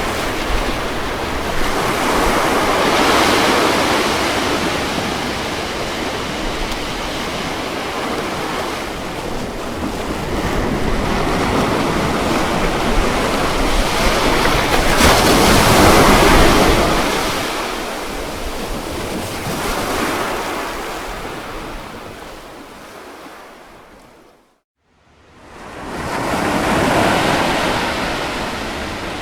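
Ocean surf: waves breaking and washing in, in slow surges several seconds apart, the biggest about halfway through. About three-quarters of the way in the sound fades briefly to silence, then swells back with the next wave.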